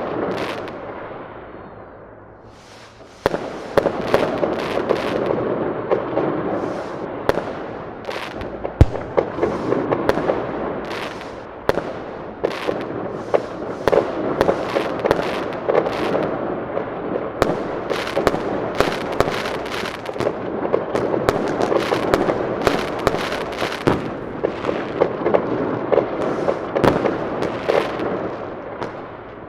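Fireworks going off in a dense, continuous barrage: a steady crackling hiss that swells and fades, with many sharp bangs and cracks on top. A brief lull comes about two seconds in, broken by a sudden bang.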